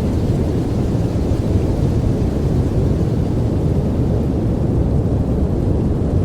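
Steady sleep-aid noise track, a deep even hiss weighted toward the low end with no tune in it.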